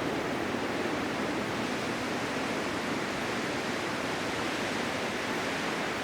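Blizzard wind blowing in a steady, even rush with no gusts or breaks.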